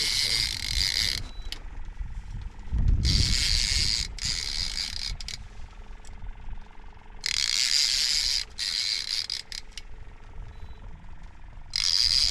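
Star-drag fishing reel cranked in four bursts of a second or two each, a whirring gear ratchet, as line is reeled down between pumps of the rod on a hooked fish.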